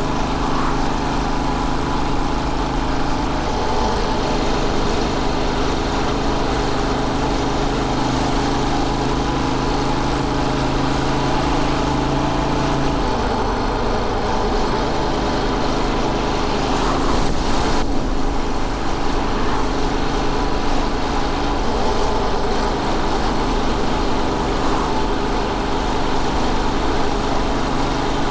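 Royal Enfield Bullet 500's single-cylinder engine running under way, its steady note shifting pitch a few times, around 4, 13 and 22 seconds in, over constant wind and road noise. A brief swish about 17 seconds in.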